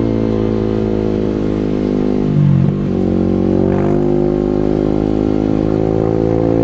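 Single-cylinder supermoto motorcycle engine running hard with a steady note. About two and a half seconds in the pitch briefly drops and recovers, as at a gear change or throttle lift.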